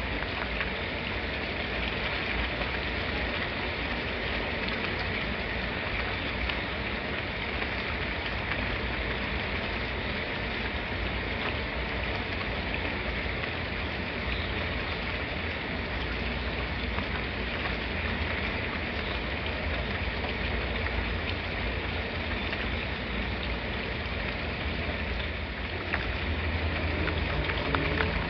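Steady rain falling: an even hiss with a low rumble underneath and scattered sharper drops, a little louder near the end.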